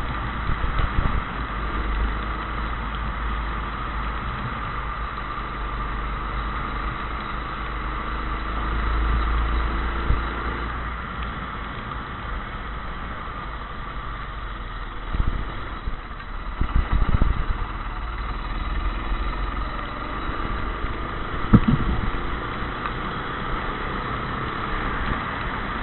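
Go-kart engine running steadily over a low rumble, with a few sharp knocks around the middle and once more later on.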